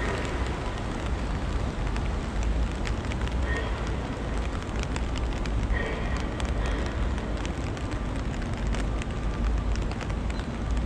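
Steady rain, with many small sharp drop ticks over an even hiss and a deep low rumble.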